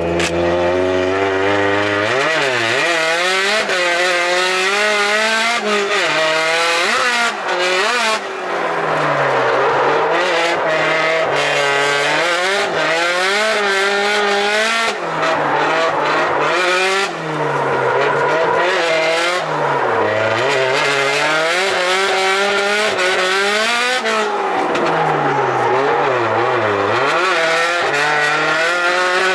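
Turbocharged car's engine driven hard on a track, the revs climbing and dropping over and over through shifts and corners, with tyre squeal.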